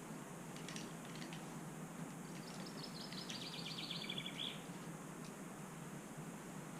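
A small songbird sings one rapid trill of repeated high notes lasting about two seconds and ending in a short flourish, over a steady background hiss.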